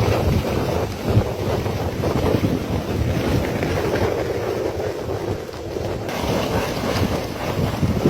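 Burning natural gas leak: a steady rushing, rumbling noise, with wind buffeting the microphone.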